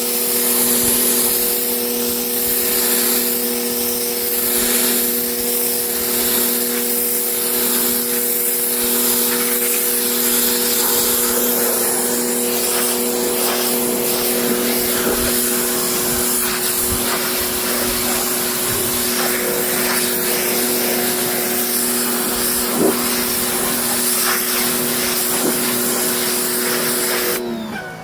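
Electric pressure washer running steadily, its motor hum under the hiss of the water jet spraying into car carpet. Near the end the trigger is released and the motor winds down.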